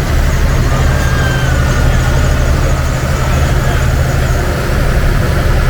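River shuttle boat's engine running steadily, a loud low hum.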